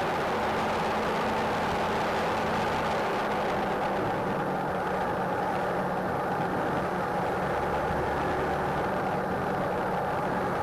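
Steady engine, tyre and wind noise of a car driving at high speed during a police pursuit, with no sudden changes.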